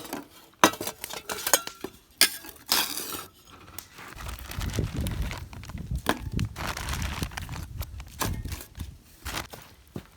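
Clinks and knocks of camp cookware and utensils being handled, with a low rumble in the middle stretch.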